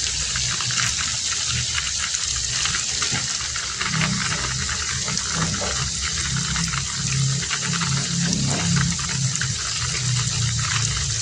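Heavy rain pouring steadily, a dense hiss of drops with a low, close pattering underneath that swells for a few seconds in the middle.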